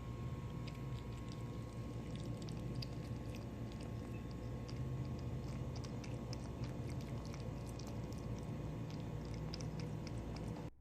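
A cat lapping ice water, a run of quick, irregular small wet clicks over a steady low hum.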